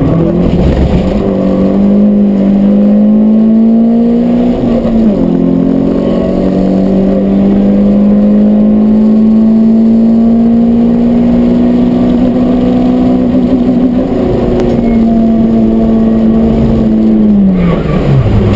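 Peugeot 106 S16's 1.6-litre 16-valve four-cylinder with a Group N stainless exhaust, heard from inside the stripped cabin, running at high revs on track. The revs drop sharply at an upshift about five seconds in, then climb slowly for several seconds, and fall away steeply near the end as the driver lifts off.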